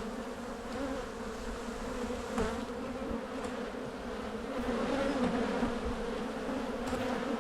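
Honey bees buzzing steadily around an open hive as its brood frames are inspected, a dense, even drone of many bees.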